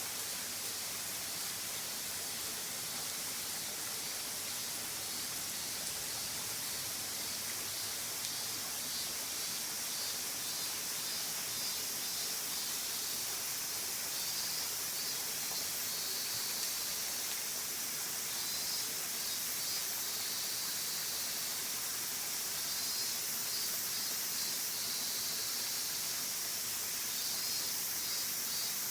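Waterfall: a steady rush of falling water, heard as an even, unbroken hiss.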